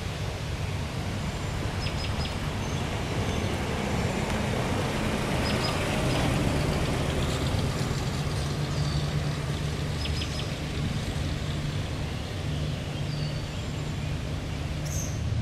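1938 Buick Y-Job's straight-eight engine running steadily at low revs, a low even hum. Faint bird chirps sound above it.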